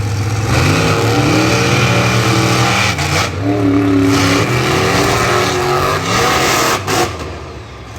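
Monster truck engines revving hard under racing acceleration. The pitch climbs about half a second in, dips around three seconds, climbs again, then drops away near the end.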